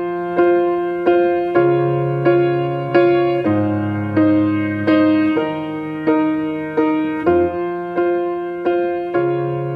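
Solo piano playing soft, evenly repeated chords, a new chord struck about every two-thirds of a second over a slowly changing bass line.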